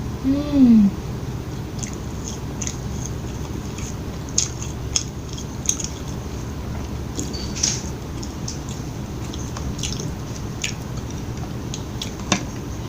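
Close-miked chewing of fast food, with scattered wet mouth clicks and a short falling "mm" hum in the first second.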